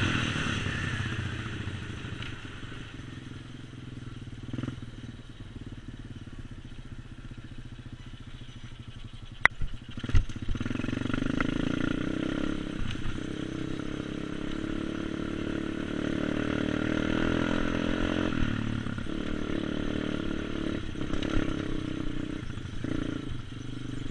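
A 125cc pit bike's small single-cylinder engine running. Its note falls and fades over the first couple of seconds, then stays low. Two sharp clicks come around ten seconds in, after which the engine runs louder and steadier, with brief dips.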